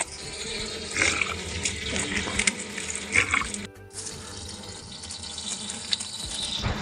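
Spring water running and splashing steadily, with a short break a little before the middle.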